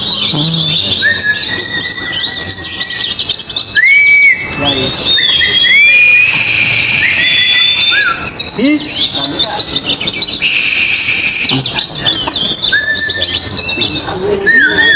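Many white-eyes singing at once: dense, fast, continuous chattering song, with clear whistled notes that rise and then hold scattered through it.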